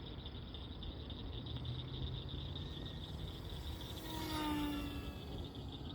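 Crickets chirping steadily, while the electric motor and propeller of a small E-flite UMX Air Tractor RC plane whine past about four seconds in, the pitch falling as it flies by.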